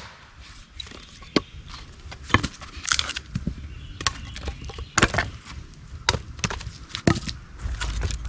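Wood being split with a cutting tool for kindling: a string of irregular sharp knocks and cracks, some in quick pairs, as the blade is driven along the grain.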